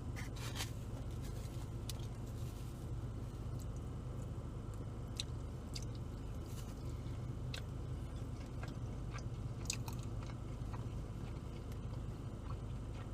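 Close-up chewing and biting of pizza, with scattered small wet mouth clicks, over a steady low hum.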